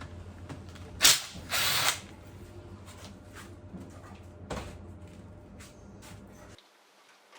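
A handheld power tool, a drill or driver, run in two short bursts while undoing engine fasteners, with smaller clicks and knocks of tools and parts. A steady low hum underneath cuts off suddenly near the end.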